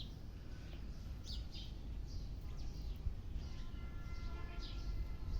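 Small birds chirping: short, high, downward-sweeping chirps repeated every half second or so, over a low rumble.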